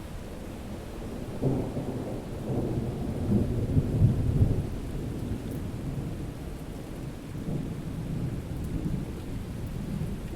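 Thunderstorm: a steady rain bed with a roll of thunder that breaks about a second and a half in, builds to its loudest around four seconds, then rumbles on more softly with smaller swells toward the end.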